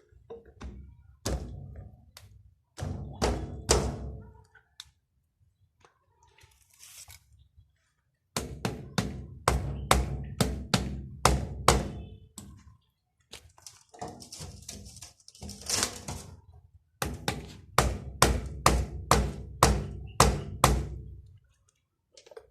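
Runs of sharp knocks in quick succession, several strikes at a time with short pauses between the runs, from hands-on work on a water-pump motor under repair. A short hiss comes in about fifteen seconds in.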